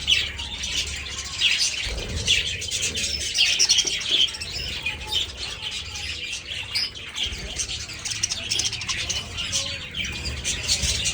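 A flock of budgerigars chirping and chattering without pause, many short calls overlapping into a busy, steady din.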